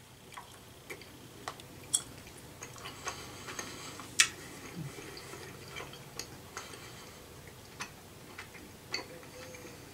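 A person chewing a soft gummy candy with the mouth closed: faint, irregular small wet clicks and smacks, with one sharper click about four seconds in.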